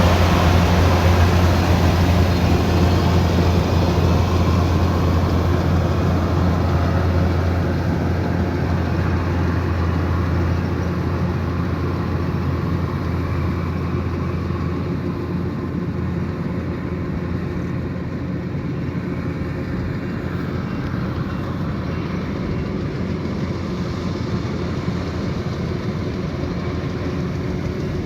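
Kubota DC108X combine harvester running: a steady diesel engine drone with a strong low hum, gradually growing quieter over the first half and then holding level.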